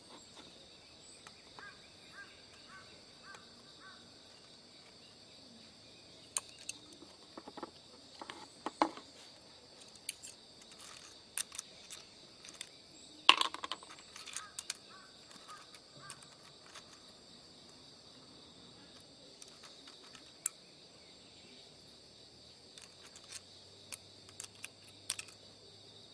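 Steady high chorus of crickets and other insects, with scattered short clicks and knocks; the loudest knock comes about halfway through.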